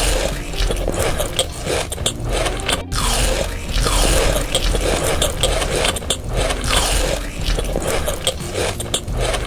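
Close-up crunching and chewing of crisp food, loud and continuous with irregular bites and scrapes.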